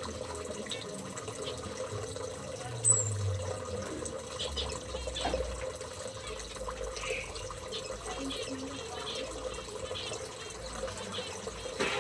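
Small caged birds chirping now and then, with one sharp high chirp about three seconds in, over a steady background noise.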